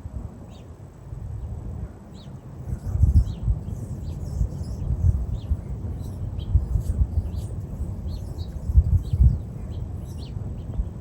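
Small birds chirping, many short high calls scattered throughout, over loud, gusting wind buffeting on the microphone.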